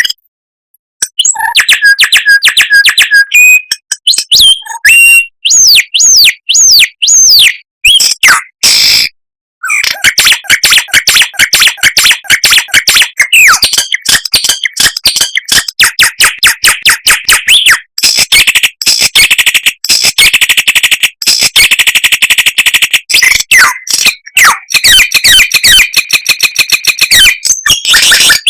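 Songbird song played loud: rapid strings of high chirps and fast trills, with a few sharp whistled glides, broken by brief pauses about a second in and about nine seconds in.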